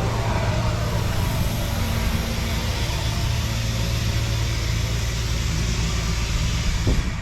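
Sandblasting: the steady hiss of the blast nozzle over the low, even drone of the compressor's engine. The blast cuts off near the end, leaving the engine running.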